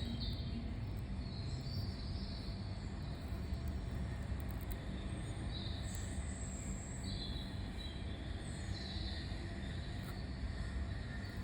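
Small birds chirping on and off, in short high calls scattered through, over a steady low rumble.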